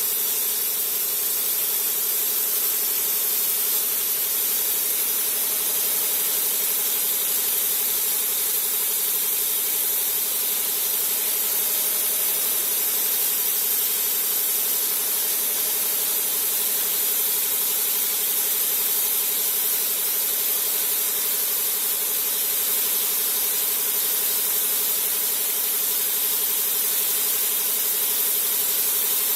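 Steady high-pitched hiss with a faint whine, unchanging throughout, as from running shop machinery.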